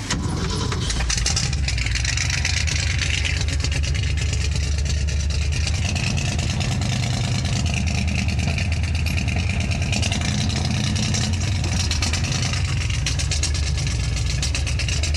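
1971 Ford engine idling steadily just after a cold start, its 15W-40 oil still thick with the cold.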